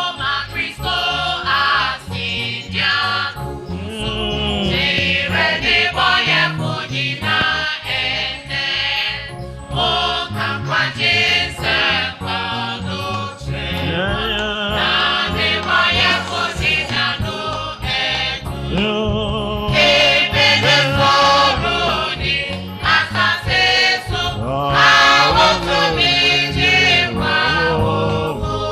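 Gospel music with several voices singing together over a full instrumental backing.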